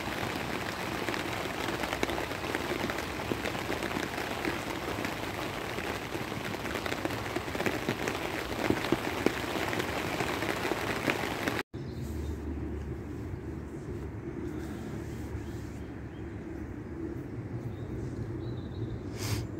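Steady rain with many close drops pattering. About twelve seconds in it cuts abruptly to a quieter steady low rumble, with a brief hiss near the end.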